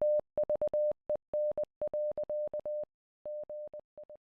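Morse code beeping: one steady tone keyed into short dots and longer dashes, growing fainter near the end.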